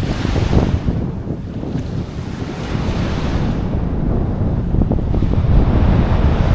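Strong wind buffeting the microphone over the wash of waves, rising slowly in level toward the end.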